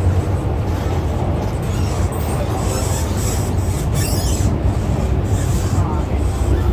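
MTR M-Train electric multiple unit running at speed, heard from inside the car: a loud, steady rumble of wheels on rail and running gear, with faint whines that glide in pitch partway through.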